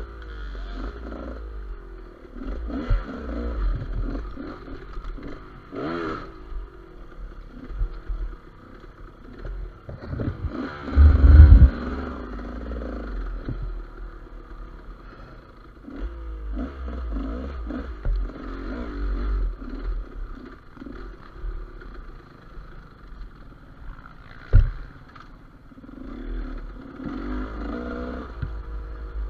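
Gas Gas EC200 two-stroke enduro motorcycle riding over rough forest ground, its engine revving up and falling back again and again with the throttle, amid clatter and scraping from the bike. A heavy low thump comes a little before the middle, and a sharp knock comes later.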